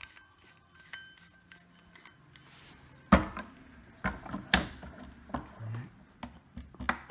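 Metal clicks and knocks of a hole saw being fitted onto a quick-disconnect arbor and locked in place: a sharp knock about three seconds in, several clicks a second or so later, and the loudest click right at the end.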